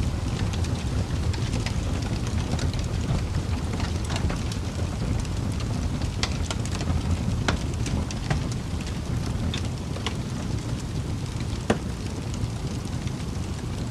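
Wood fire burning in a fireplace: a steady low rumble of flames with irregular crackles and small pops from the burning logs, one sharper pop near the end.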